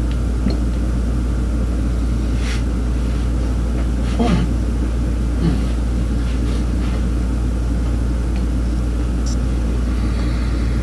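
A steady low rumble, with a few faint knocks and light handling sounds between about two and six seconds in.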